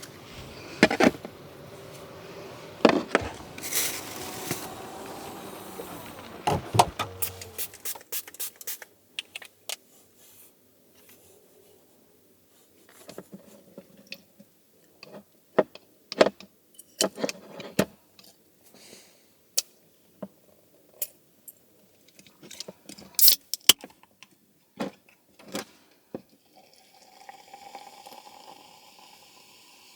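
Liquid pouring or running for several seconds, then a long run of small clicks and knocks as things are handled.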